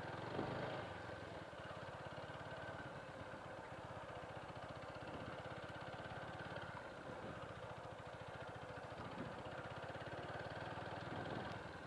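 Motorcycle engine running steadily and fairly faintly, with an even, rapid pulsing.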